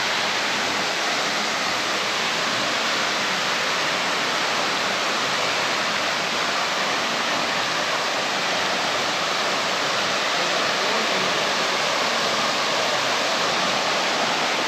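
A free-falling waterfall splashing into its pool, a steady, even rush of water.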